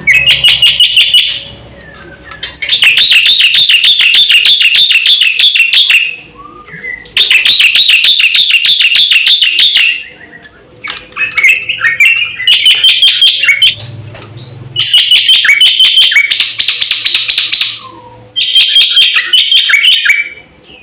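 Black-winged myna (jalak putih) singing loudly in runs of rapidly repeated, fast-changing notes, each run lasting about three seconds, with brief pauses between.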